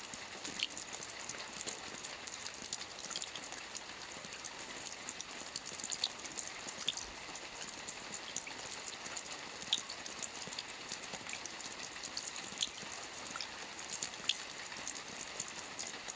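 Steady rain falling, with individual drops ticking and tapping sharply on a surface now and then.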